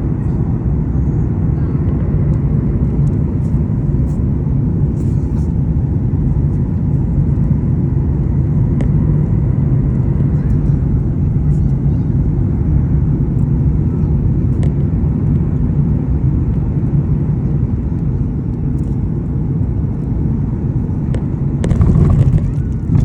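Airliner cabin noise: a steady low rumble from the aircraft, with a brief louder rushing noise near the end.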